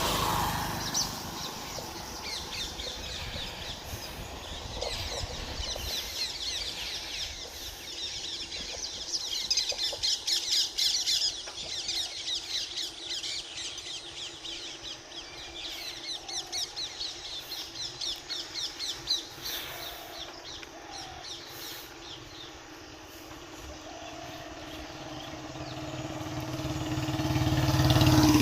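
Birds chirping in quick repeated series, busiest in two spells through the middle. Near the end a motor vehicle's engine approaches and grows steadily louder.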